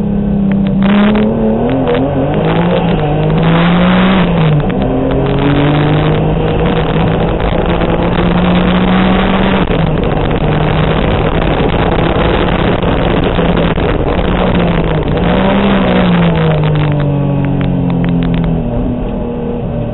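Turbocharged Honda NSX race car's V6 engine under hard driving, heard from inside the cabin. The pitch climbs and drops a few seconds in, holds steady through a long stretch, then rises once more and falls away near the end as the car slows.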